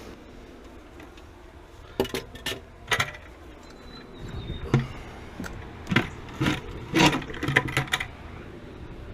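Irregular clinks and knocks of plumbing tools and metal fittings being handled, starting about two seconds in and coming in quick clusters, a dozen or so in all.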